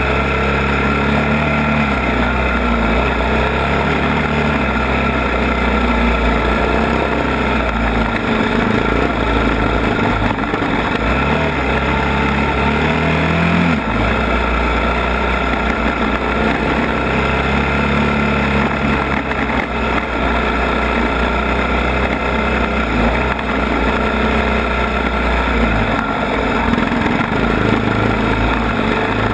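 ATV engine running on a trail ride, its pitch rising and falling with the throttle, with a sudden change in engine note about 14 seconds in.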